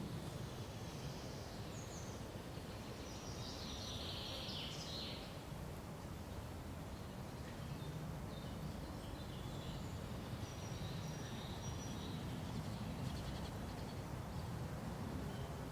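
Forest ambience: a steady low rustle of wind in the trees under bird calls, with a busy burst of high calls about four seconds in and scattered short chirps later.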